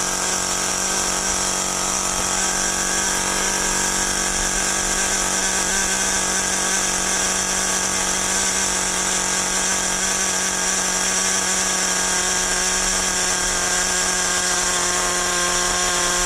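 Traxxas Nitro Rustler's small two-stroke nitro engine running at a steady, high, buzzing pitch, after it started with a new glow plug fitted in place of a dead one.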